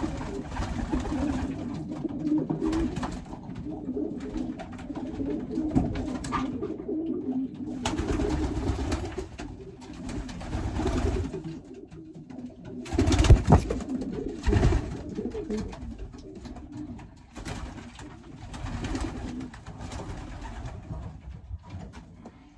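Racing pigeons cooing in a small loft, with repeated bursts of rustling and scuffling as the birds are handled. The loudest scuffle comes about 13 seconds in.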